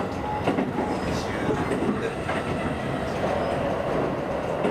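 Inside a JR East Tokaido Line commuter train running on the line: a steady rumble of wheels and running noise, with a few sharp clicks from the wheels crossing rail joints.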